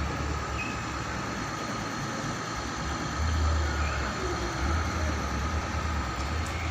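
Steady low rumbling background noise that swells and dips.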